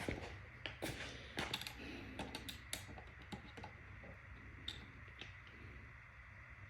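Scattered light clicks and knocks from objects being handled, several in quick succession in the first three seconds, then fewer and fainter.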